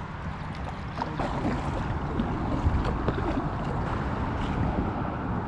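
Water splashing and sloshing around a small boat moving on a river, with small splashes and knocks starting about a second in over a steady low rumble.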